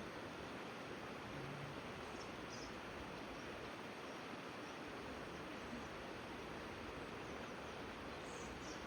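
Steady rushing of river water, with a few faint, short high bird chirps about two and a half seconds in and again near the end.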